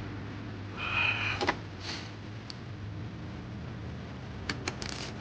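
Hand tools working the truck battery's terminal and hold-down fittings: a short squeaky metal scrape about a second in, then scattered sharp metallic clicks, over a steady low hum.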